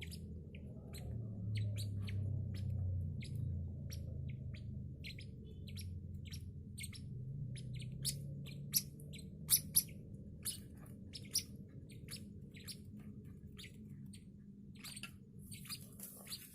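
Six-day-old lovebird chicks peeping in many short, high chirps, several a second, over a low steady hum.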